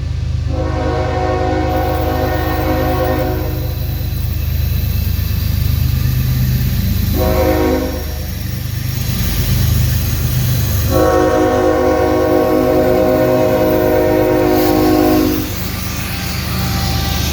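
Diesel freight locomotive's five-chime Nathan K5HL air horn sounding the grade-crossing signal: a long blast, a short blast, then another long blast, over the steady low rumble of the GE locomotives' engines.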